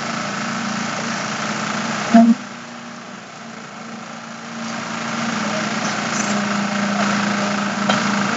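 Engine-driven machinery running steadily with a low hum, during a concrete slab pour. A short loud knock comes about two seconds in, then the machine goes quieter for a couple of seconds before it picks back up.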